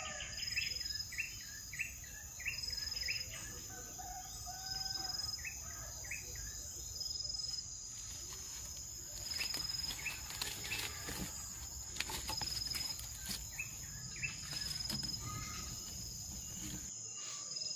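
Insects droning with a steady high buzz, with a short high note repeating about once a second. A bird gives series of quick chirps, a rapid run in the first few seconds and shorter runs later. Scattered light clicks and rustles come in the middle.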